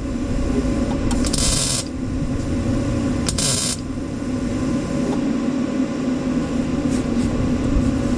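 Two short tack welds being laid on thin truck body sheet metal, each a brief crackling hiss lasting about half a second, roughly two seconds apart, over a steady low hum.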